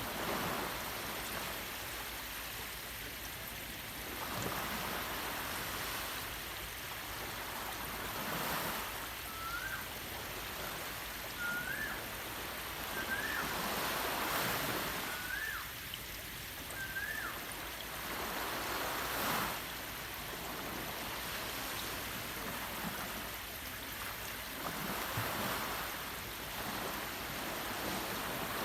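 Waves washing in with a steady surging rush. Over it a bird gives a short, rising whistled chirp five times, one every couple of seconds, in the middle stretch.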